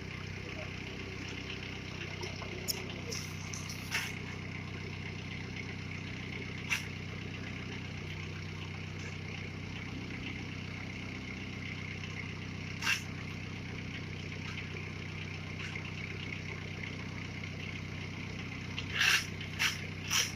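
A vehicle engine idling steadily, with a few short sharp knocks over it and a quick run of knocks near the end.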